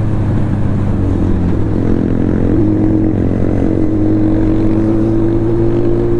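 Sport motorcycle engine running hard at speed on the road. Its pitch steps up about two and a half seconds in and then climbs slowly as the bike accelerates.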